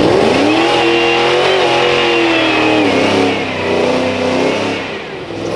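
Car engine revving up hard and held at high revs for about three seconds, with a high whine riding over it, then easing before revving up again near the end.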